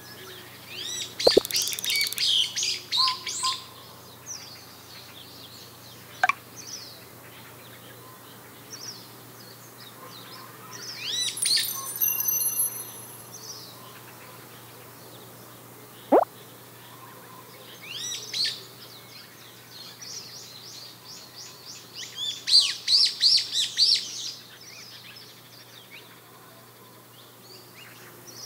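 Small songbirds chirping and twittering in short spells of quick high notes a few seconds apart, with a few sharp single clicks in between.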